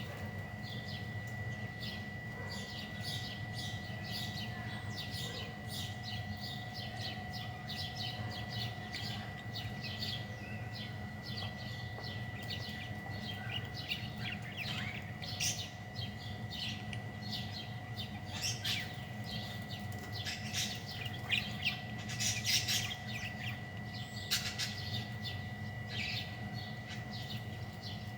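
Small birds chirping in quick, irregular calls, over a steady high-pitched whine and a low hum.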